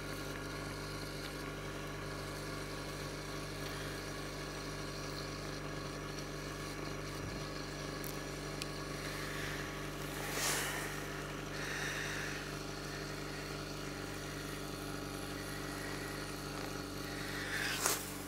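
Honda HR-V's 1.6-litre 16-valve four-cylinder petrol engine idling steadily, heard at the tailpipe. A brief rush of noise comes about halfway through, and a few sharp clicks near the end.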